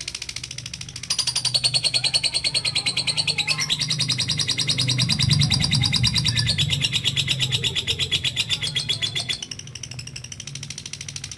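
Lovebird giving a long 'ngekek': a very fast, unbroken rattling chatter that starts about a second in, steps up and down in pitch a few times, and stops near the end.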